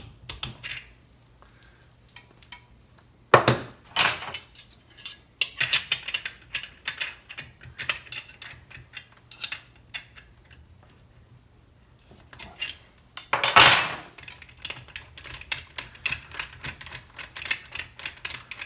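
Metal hand tools and parts clinking and clattering as they are handled and set down, with a few louder knocks and a run of quick clicks near the end.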